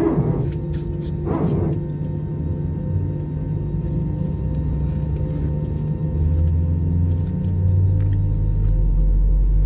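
Airbus A321's left CFM56 turbofan starting, heard inside the cabin over a steady hum of cabin air and ground power. A deep rumble builds about six seconds in and grows louder near the end as the engine spools up to idle.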